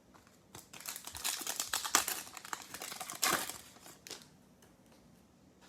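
Plastic-foil trading card pack wrapper crinkling as it is torn open and handled, a crackly burst from about half a second in that peaks around the middle and dies away about four seconds in.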